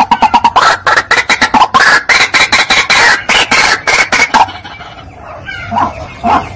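White-breasted waterhen (ruak-ruak) calls played as a bird lure: a loud, rapid run of short harsh repeated calls, several a second. The calls drop back to a few quieter ones about four and a half seconds in, then pick up again near the end.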